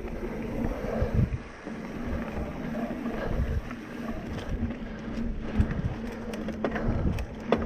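Mountain bike ridden along a dirt trail through berms: tyres rumbling over sand and dirt with wind buffeting the microphone, and a few sharp knocks and rattles from the bike over bumps toward the end.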